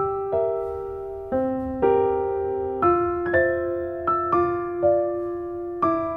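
Background piano music: gentle, unhurried piano chords, a new chord or note struck roughly every half second and left to ring.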